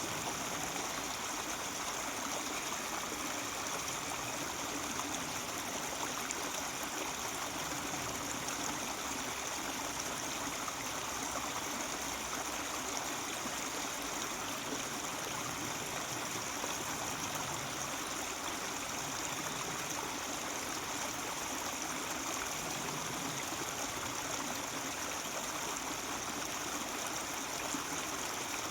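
Mountain stream babbling steadily.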